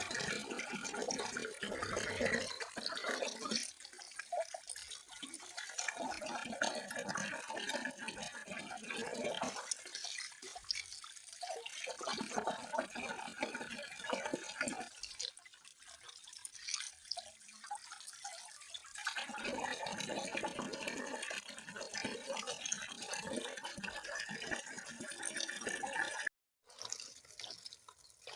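Running water splashing, swelling and easing off in spells, cutting out completely for a moment near the end.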